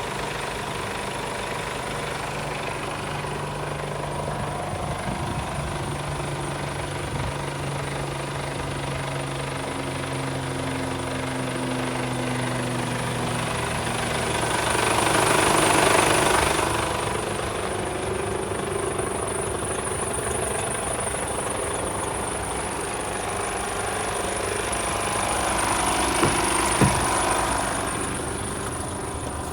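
Mercedes Actros 1840's 400 bhp Euro 6 diesel engine idling with a steady clatter. Two louder swells of noise come through, one about halfway and a smaller one near the end.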